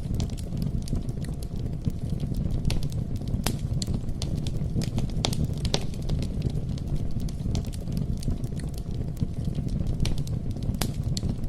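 Campfire burning: a steady low rumble of flames with sharp pops and crackles at irregular intervals.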